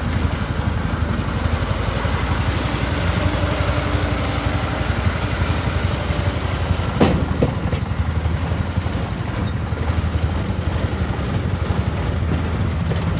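Engine running steadily at an even pace, with a sharp knock about seven seconds in.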